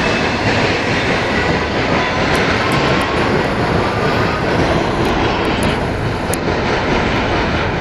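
Double-stack container train's well cars rolling past: a steady, loud rumble of steel wheels on rail, with faint thin squealing tones above it.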